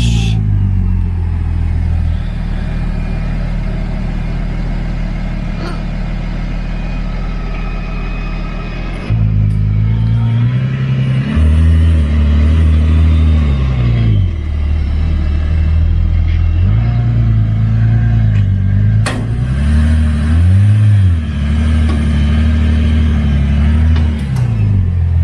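Car engine running at low revs, with the revs dipping and rising briefly several times in the second half; it gets louder about nine seconds in.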